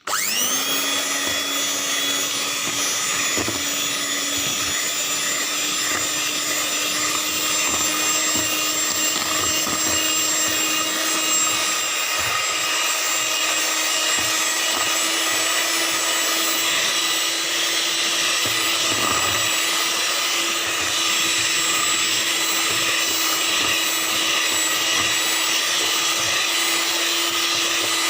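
Electric kitchen mixer switched on, spinning up with a short rise in pitch and then running at a steady speed, beating the cake mixture.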